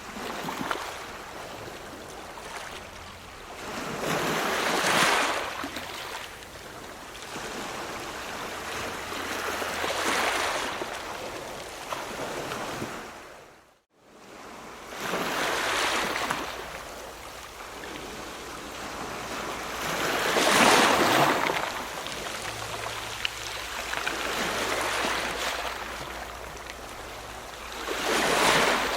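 Ocean waves washing in, each surge of surf swelling and fading every five seconds or so, with a brief gap of silence about halfway through.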